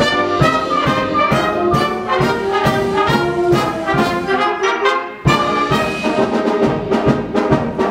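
Brass-led orchestral introduction to a march-like song, starting abruptly with a steady beat; it drops away briefly about five seconds in, then comes back in.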